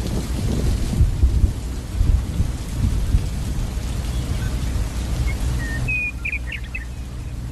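A loud, steady low rumble with uneven swells under an even rain-like hiss, sounding like thunder and rain. A few faint high chirps come in near the end.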